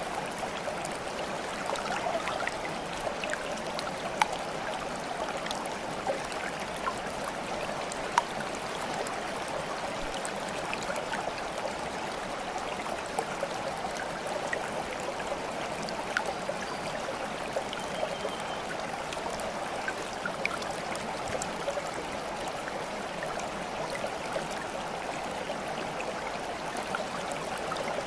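Water flowing steadily, like a babbling stream, with scattered small sharp ticks of drips or splashes.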